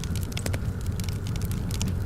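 Wood fire in a fireplace crackling, with many small irregular pops over a steady low rumble of the burning.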